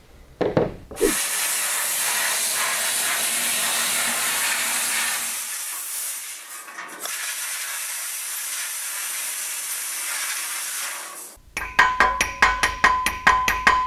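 Abrasive media blaster cabinet blasting rust off a steel door-panel hanger strip: a loud, steady hiss of air and grit for about ten seconds, dipping briefly near the middle. It stops, and a hammer strikes the steel strip on a vise in quick, ringing metal blows to straighten it.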